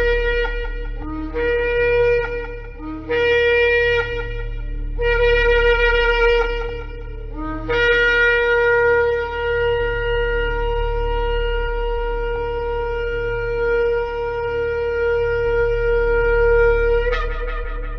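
Shofar (ram's horn) blowing: a few short blasts, each jumping up from a brief low note to the main note, then one long held blast of about nine seconds that breaks off with a rough blare near the end.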